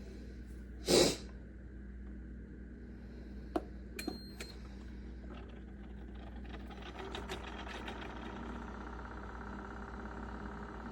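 A short burst of noise about a second in, then a click and a short high electronic beep at about four seconds, typical of a coffee maker's control panel. After that a steady machine hum with faint rapid ticking sets in.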